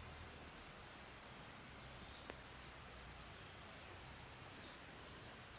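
Faint rural ambience with insects chirping in a high, steady band, and a single small click a little over two seconds in.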